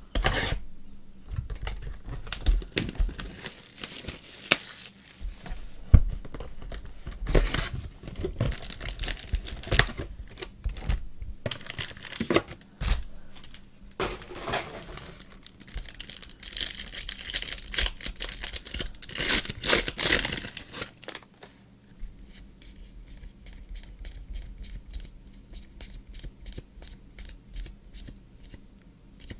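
Trading card pack wrappers being torn open and crinkled, with the loudest tearing about two thirds of the way through. Softer, rapid clicking follows near the end as the cards are handled.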